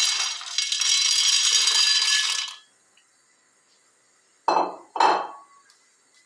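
Dry pasta being stirred into a pot of boiling water: a dense, high rustling hiss for about two and a half seconds that stops suddenly. About four and a half seconds in come two sharp clanks on the pot, half a second apart.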